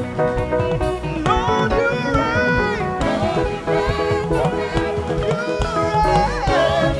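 Live gospel praise band playing an instrumental passage between sung lines, with a lead melody that bends and glides in pitch over a full band backing.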